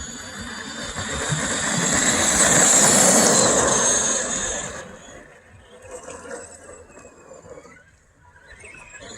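Brushed electric motors of RC monster trucks whining at speed, with tyre and drivetrain noise, growing louder to a peak about three seconds in as they pass close, then dropping away sharply about five seconds in.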